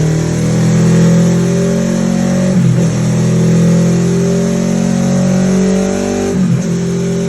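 Kawasaki Ninja 650 parallel-twin engine running hard through a full Akrapovic titanium exhaust, accelerating under throttle. The engine note breaks briefly twice, about two and a half seconds in and near the end, like quick gear changes.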